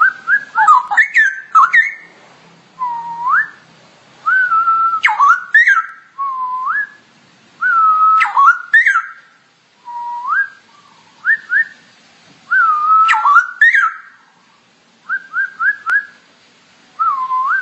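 Straw-headed bulbul (cucak rowo) singing: a run of short, loud whistled phrases with upward swoops and quick slurred notes, repeated every second or two with brief pauses between.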